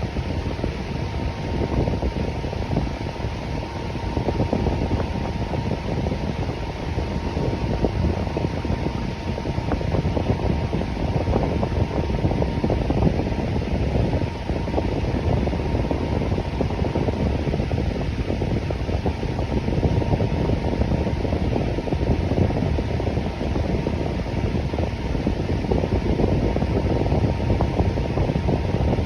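Electric fan running steadily: an even rush of air that is strongest in the low range. A faint, steady high hum sits over it and fades out about halfway through.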